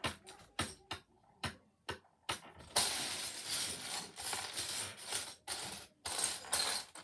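Loose Lego plastic pieces: a run of separate hard clicks about half a second apart, then from about three seconds in a continuous clattering rattle as the pile of pieces is rummaged through.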